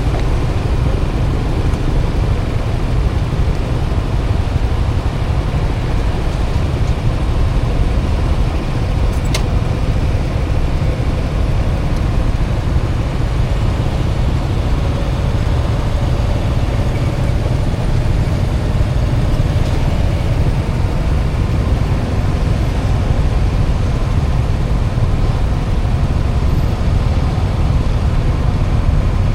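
Steady rumble of wind and road noise on a helmet-mounted camera's microphone from a moving motorbike, with its engine running underneath. About nine seconds in, a single click: the helmet bumping against the camera.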